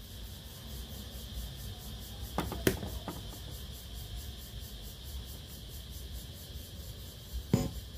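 Steady electronic hiss and low mains hum from a cassette radio, with a few sharp clicks about two and a half to three seconds in and again near the end.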